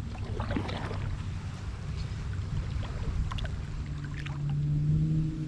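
Kayak being paddled: the paddle dipping and splashing a few times over a steady low rumble of water and hull. A steady low hum comes in about four seconds in.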